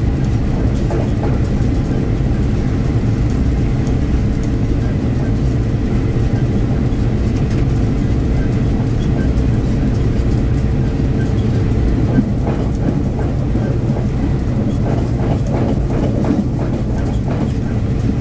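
Diesel train running along the track, its engine a loud steady drone. In the second half, wheels click over rail joints.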